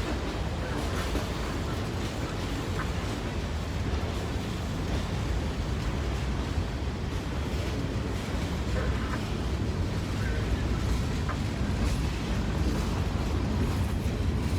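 Norfolk Southern freight train rolling past with a steady low rumble that holds even throughout.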